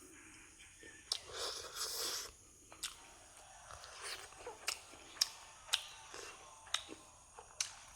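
Close-miked eating sounds: chewing with a series of sharp, wet mouth clicks, and a breathy rush of air lasting about a second a little after the start.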